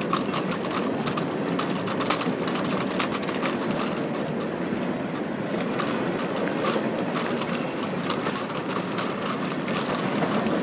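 Union Pacific freight train's cars rolling past on the rails, a steady running noise with rapid, irregular clicks and clacks from the wheels.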